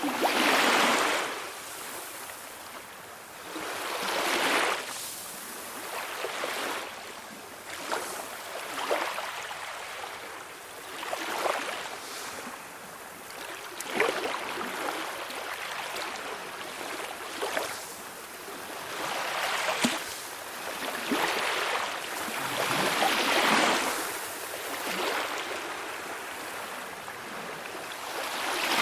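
Calm sea waves washing in on the shore, each one swelling into a hissing wash and falling back every two to three seconds, with now and then a small splash.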